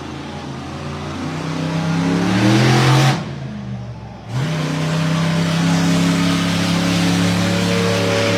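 Monster truck's 1,500-horsepower engine revving. It climbs for about three seconds, drops off sharply, then revs up again at about four and a half seconds and holds high revs steadily.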